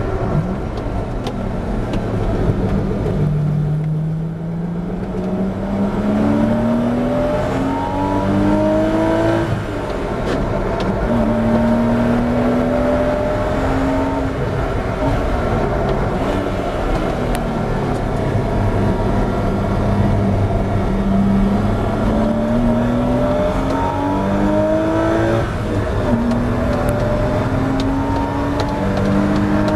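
Porsche 986 Boxster S 3.2-litre flat-six racing engine, heard from inside the cabin, accelerating hard. Its pitch climbs in repeated sweeps, each broken by a sudden drop at an upshift, after a short spell of hard braking at the start.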